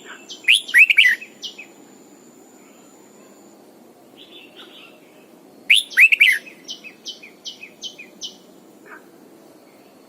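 Red-whiskered bulbul singing two loud phrases of quick sweeping whistles, about five seconds apart. The second phrase ends in a string of short, evenly repeated notes.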